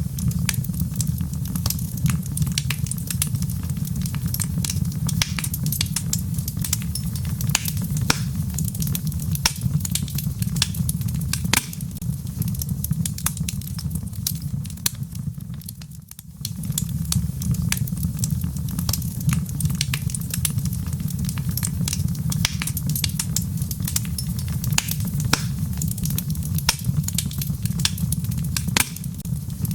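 Wood fire crackling in a fireplace, with frequent sharp pops and snaps over a steady low rumble. The sound dips briefly about halfway through, then resumes.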